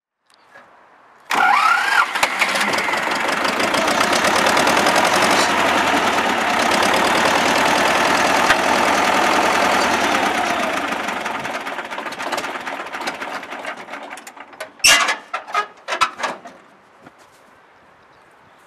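T-25 tractor's air-cooled two-cylinder diesel engine starting abruptly and running steadily, then fading away over a few seconds. A few sharp knocks follow near the end.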